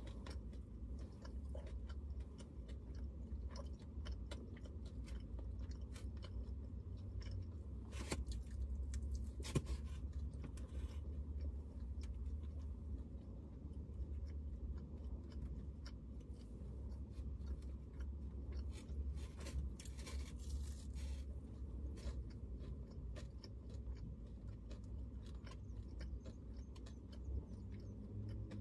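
Someone chewing and biting crunchy food, a bacon and hash brown meal, close to the microphone, with small crunches and mouth clicks spread throughout, over a steady low hum.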